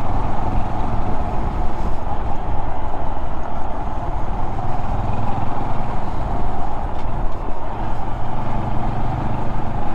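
Honda Monkey 125's small single-cylinder four-stroke engine running at a steady cruise under way, with steady wind and road noise over it.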